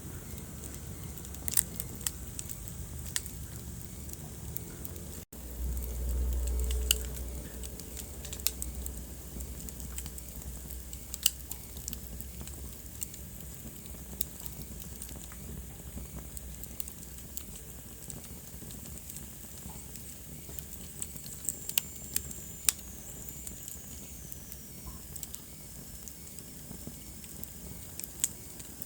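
Wood fire crackling in a fireplace, with scattered sharp pops over a steady hiss. A brief low rumble comes a few seconds in, and a faint falling whistle about two-thirds of the way through.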